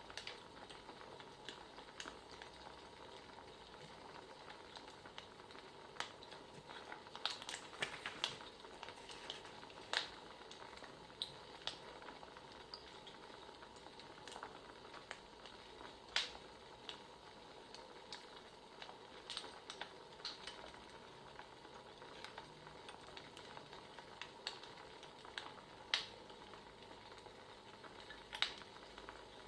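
Wood fire crackling, heard faintly: a steady soft hiss with irregular sharp pops and snaps, a few of them louder.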